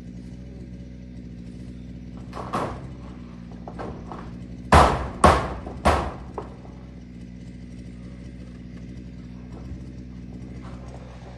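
Hammer blows during zinc roofing: a lighter knock, then three loud sharp strikes about half a second apart, over a steady low hum.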